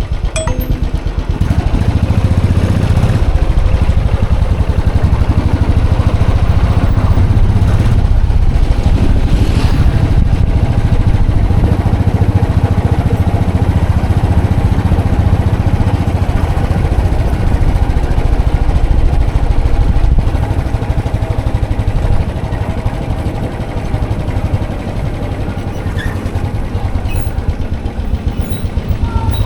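Royal Enfield Classic 500 EFI's single-cylinder engine running, with a rapid, even exhaust beat; a little quieter from about twenty seconds in.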